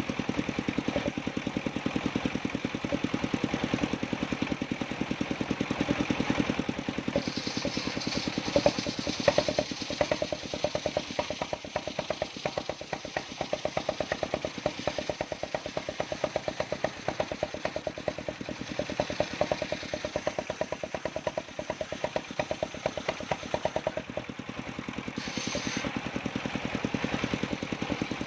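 Engine of a travelling circular saw rig running steadily, with a rapid even pulse. A higher hiss joins it from about a quarter of the way in until about two-thirds through, as the saw works the timber.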